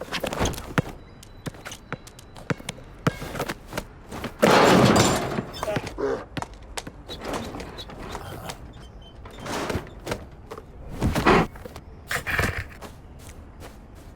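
A run of sharp knocks and clicks, with a loud rushing thud about four and a half seconds in and two more heavy hits near the end.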